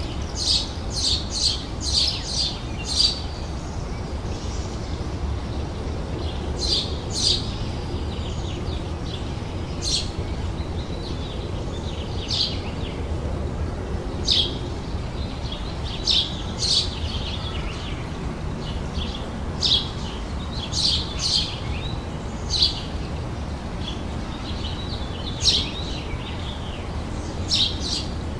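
Small birds chirping outdoors: short, sharp high chirps, a quick run of several in the first few seconds, then single and paired calls spread through the rest. A steady low background noise runs underneath.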